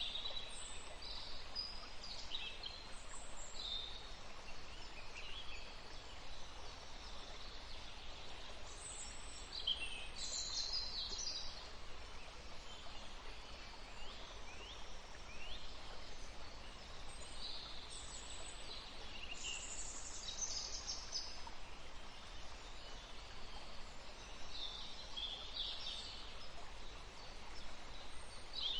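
Several wild birds chirping and calling in short high phrases and trills, scattered throughout, over a steady background hiss and low rumble.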